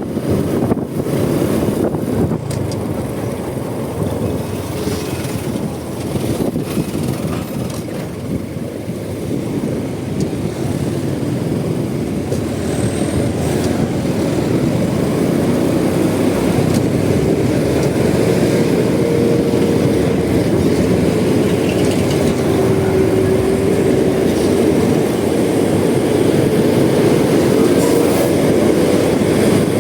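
Honda Supra X 125 motorcycle on the move: its single-cylinder engine and road noise, with wind on the microphone, getting slightly louder toward the end. A steady hum that wavers a little in pitch comes in around the middle.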